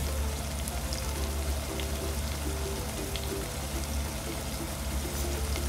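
Prawns, onion and tomato frying in oil in an aluminium pot: a steady sizzle throughout. Background music with a short repeating melody plays under it.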